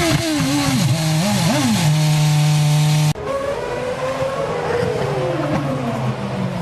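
Formula One car engines at high revs. Over the first three seconds the pitch swoops up and down, then holds steady. After a sudden cut about three seconds in, a second engine note falls slowly in pitch.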